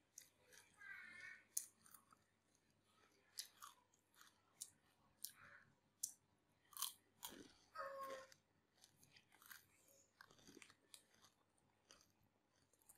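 Faint close-up chewing of crispy rice-paper salad (bánh tráng trộn) with pork floss: scattered sharp crunches and crackles as the brittle rice paper breaks between the teeth.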